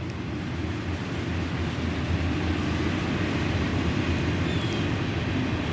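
Low, steady rumble of a distant vehicle, slowly growing louder.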